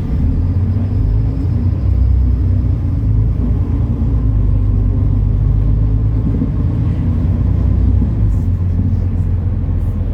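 MAN Lion's City NL293 city bus's diesel engine running while the bus is under way, a steady low rumble that eases slightly near the end.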